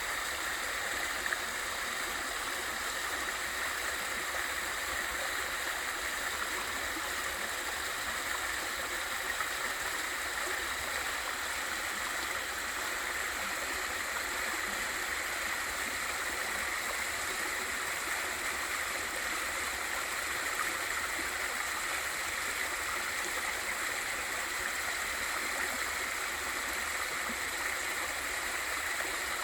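Waterfall and valley stream: water falling and rushing over rocks in a steady, unbroken hiss.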